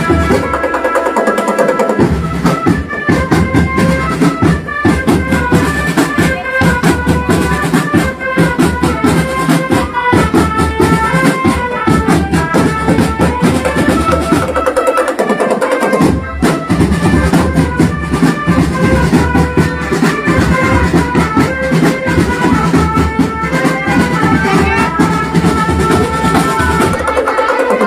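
Marching drum band playing: dense drumming with bass drum under a melodic line of held pitched notes. The low drums drop out for about a second three times, about a second in, around the middle and near the end.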